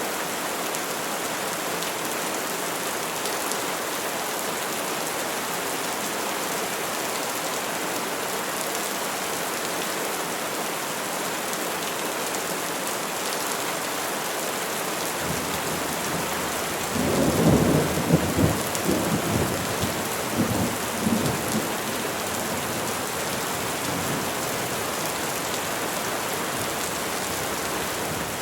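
Steady rain falling on trees. A little past the middle, a rumble of thunder rolls in several swells for about four seconds.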